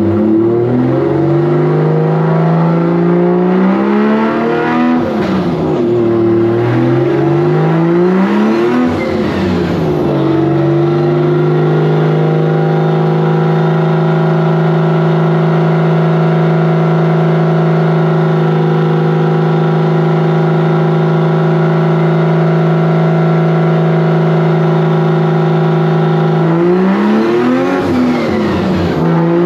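Drift car's engine revving up in two climbs of about four seconds, each dropping back, then held at one steady speed for about fifteen seconds before revving and falling again near the end.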